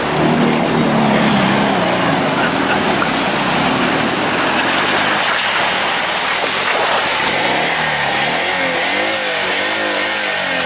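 A vehicle engine running over heavy wind and road noise. In the last few seconds its pitch rises and falls several times as it is revved up and down.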